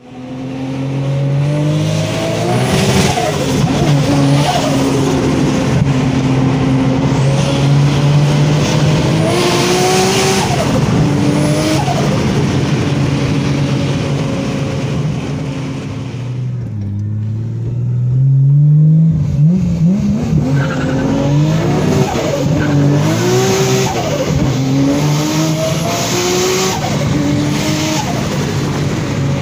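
Turbocharged Toyota 2JZ-GTE 3.0-litre straight-six pulling hard under boost, heard from inside the cabin. The engine note rises and drops again several times as the car accelerates through the gears.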